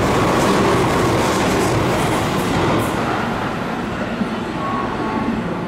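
Electric commuter train running into the platform and slowing, its running noise dying away steadily, with a brief high squeal about two to three seconds in.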